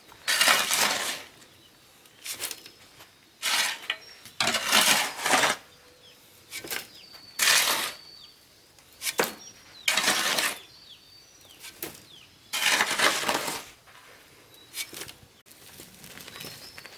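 Hand building work with hard materials: about a dozen irregular scrapes and clinks, each lasting up to about a second, with short quiet gaps between them.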